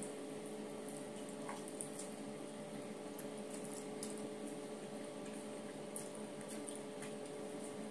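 Close-up eating sounds: soft wet chewing and small mouth clicks and smacks as food is eaten by hand. A steady electrical hum runs underneath.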